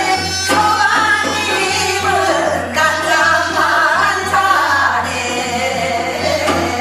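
Korean Gyeonggi folk singing, hwimori japga, with rapidly changing sung melody lines over a steady low hum.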